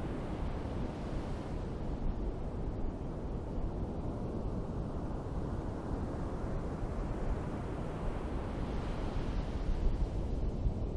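Ocean surf washing onto a beach, with wind rumbling on the microphone. Waves swell about a second in and again near the end.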